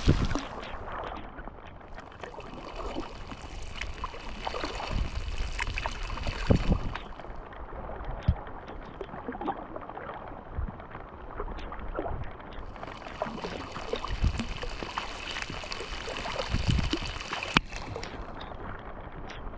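Kayak being paddled in the rain: paddle splashes and dripping water over a steady patter of raindrops, with a few dull thumps.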